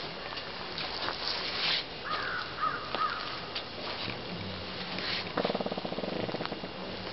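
Outdoor ambience by the woods: a bird calls with a few quick gliding notes about two seconds in. A little past five seconds a short rapid rattle of many fast even pulses runs for about a second.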